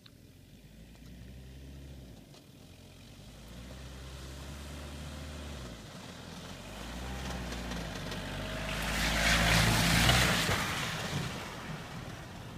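Peugeot 205 XTD's 1.9-litre diesel engine revving hard as the car drives across a grass field, its pitch rising through the gears with breaks about two and six seconds in. It gets louder as it nears and peaks about nine to ten seconds in with a loud rush of tyre noise as the car slides on the grass, then falls away.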